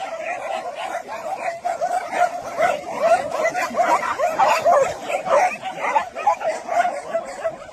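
A pack of dogs barking and yipping at once, many short calls overlapping in a continuous din.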